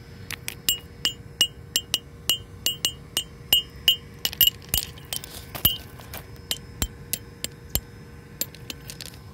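Repeated sharp metallic strikes with a short ring, like a railroad spike being knocked against rock, about three a second, thinning out to scattered blows after about six seconds.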